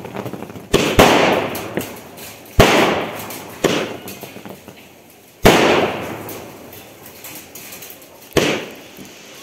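Multi-shot sky-shot firework cake firing aerial shells that burst overhead: about six sharp bangs at uneven intervals, each trailing off in a fading crackle of the bursting stars.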